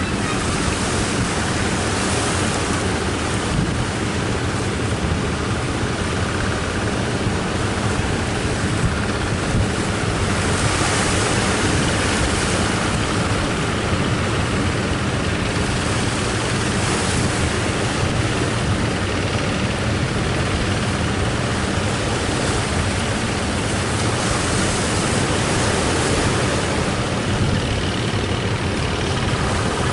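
Strong wind buffeting the microphone over breaking ocean surf: a loud, steady rush of noise with a low rumble.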